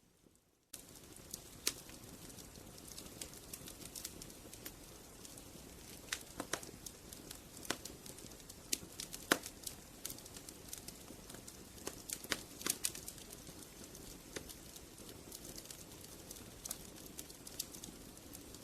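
Wood fire crackling: frequent sharp, irregular pops and snaps over a steady low rumble of burning. It cuts in abruptly after a brief near-silent gap about a second in.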